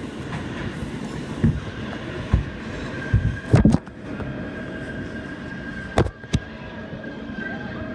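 New York City subway car heard from inside: steady running rumble with several sharp knocks and clunks, and a thin steady whine that comes in about three seconds in.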